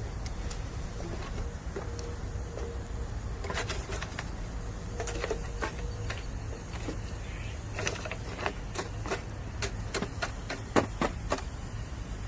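Bamboo burning in a campfire, giving irregular sharp pops and crackles that come thickest about eight to eleven seconds in. Over the first few seconds a faint steady whistle runs under them: moisture steaming out from inside the bamboo.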